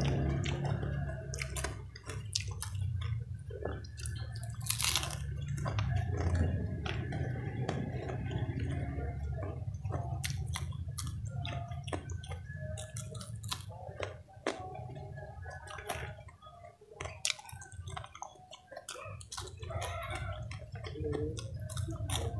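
Close-miked eating: chewing crispy fried vegetable fritters with fresh chilies, with many irregular crunches, wet mouth and lip smacks.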